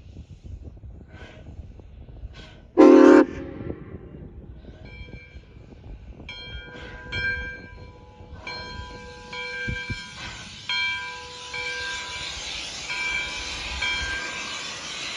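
Steam locomotive No. 93 gives a short, loud whistle blast about three seconds in. From about five seconds a high ringing tone comes and goes, and a steady steam hiss builds from about eight seconds on.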